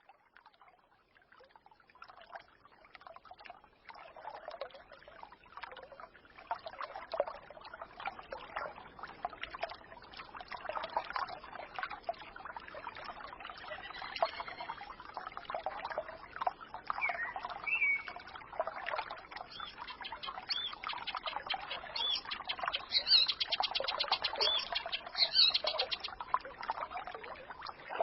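Small forest stream babbling and trickling, fading in over the first few seconds. Birds chirp over it in the second half, with a fast high trill near the end.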